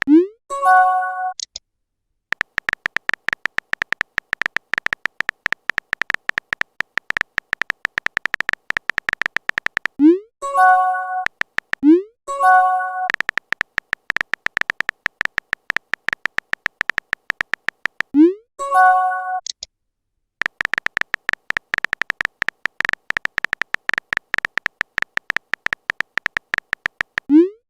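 Messaging-app sound effects: long runs of rapid, even typing clicks, broken five times by a short rising pop and a brief multi-note chime, like a chat message being sent or arriving.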